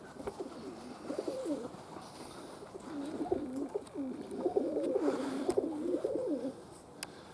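Domestic pigeons cooing: a short bout, then a longer run of wavering coos from about three seconds in. A single sharp click near the end.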